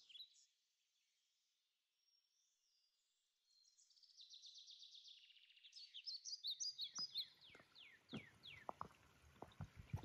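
After a few seconds of near silence, a songbird sings: a fast, high trill, then a run of slurred notes, each sliding down, the series stepping lower in pitch. Footsteps on the trail come in over the last couple of seconds.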